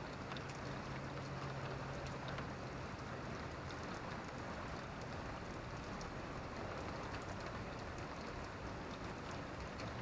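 Steady rain: an even hiss with scattered drops ticking through it. A faint low hum lies under it for the first few seconds.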